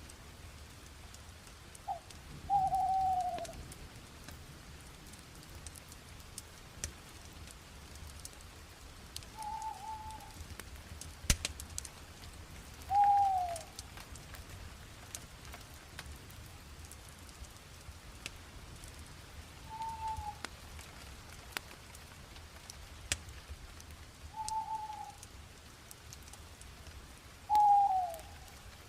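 Bonfire crackling with scattered sharp pops, one louder pop about eleven seconds in. Over it a bird gives six short, falling whistled calls spaced a few seconds apart.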